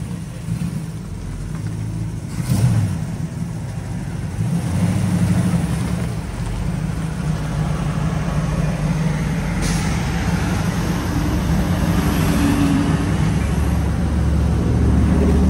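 A 1967 Camaro's small-block V8 running at idle as the car creeps along at low speed, its low, steady exhaust note growing louder toward the end as it pulls up close.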